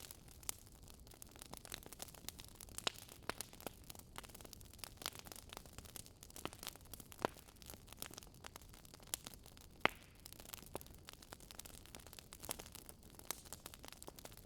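Faint wood fire crackling: irregular sharp pops and snaps, a few louder ones seconds apart, over a soft steady hiss.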